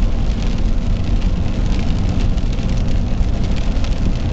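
Car driving along: a steady low engine rumble mixed with road noise.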